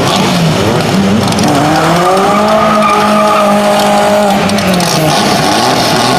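Car engine revved: it climbs about a second and a half in, holds high revs for a couple of seconds, then drops back toward idle.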